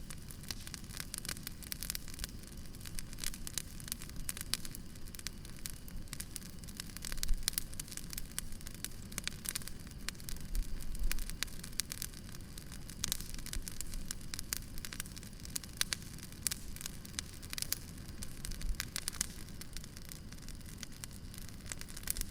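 Wood fire crackling steadily: dense, irregular crackles over a soft hiss, with a few louder low knocks about a third of the way through and around halfway.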